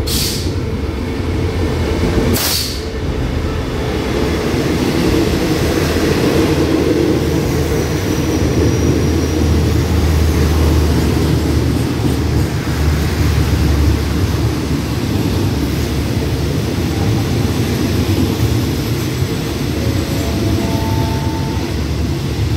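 SRT QSY-class diesel-electric locomotive and its passenger coaches pulling into the platform, with a steady low rumble of engine and wheels on rails as the train slows to a stop. There are two short, sharp hisses in the first three seconds and a few brief faint squeaks near the end.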